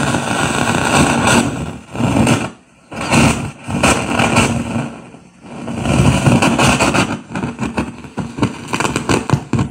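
Loud, irregular crackling and rumbling noise from the amplifier's speaker as the worn volume control potentiometer is worked, coming in uneven bursts with short drop-outs: the sign of a dirty or worn volume pot.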